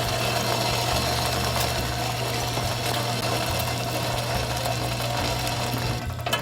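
Steady hum of a small motor running without a break, with a low drone and a thin steady tone over it.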